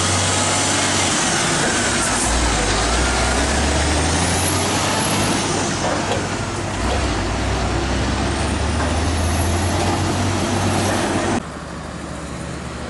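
Heavy diesel truck engine running loud with a dense hiss over it; its note drops about two seconds in. Near the end it cuts abruptly to a quieter engine hum.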